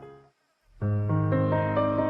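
Soft piano-like background music: a fading phrase cuts to silence for about half a second, then new sustained notes start again about 0.8 s in.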